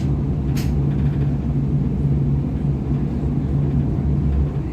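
Interior of a DB Class 425 electric multiple unit running between stations: a steady low rumble from the running gear with a constant low hum, and a brief hiss about half a second in.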